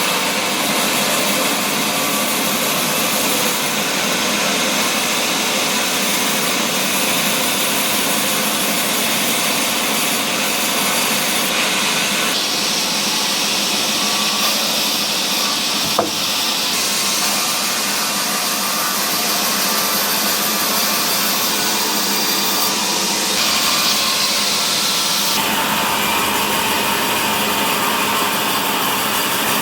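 Sawmill saw cutting mahogany timber: a steady, loud machine noise whose tone shifts several times as the cut goes on, with one sharp click about halfway through.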